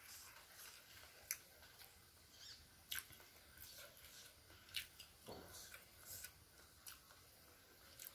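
Quiet mouth sounds of a person chewing food: soft smacking, with a handful of sharp little clicks spaced a second or two apart.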